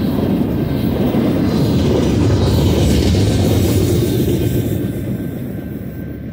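Tail end of a double-stack intermodal freight train rolling past: the steady rumble of the loaded well cars on the rails, fading away over the last couple of seconds as the final car goes by.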